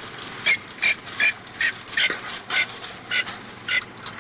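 An animal calling over and over, short sharp calls at about two a second.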